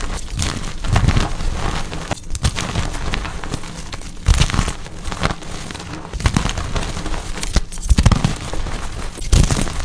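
Blocks of gym chalk being crushed and crumbled: a run of irregular crunches and crackles, many with a dull low thud.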